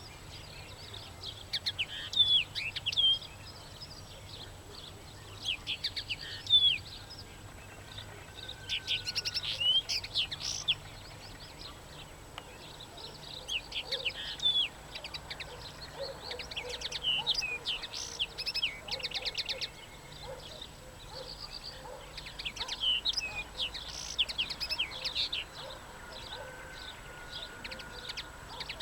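Songbird singing from a branch: phrases of short, sharp chirps and fast trills, repeated every couple of seconds with short pauses between them.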